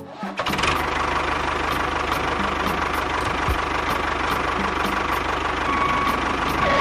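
A small motor running steadily with a fast fine rattle and a thin high whine. It starts about half a second in and cuts off near the end.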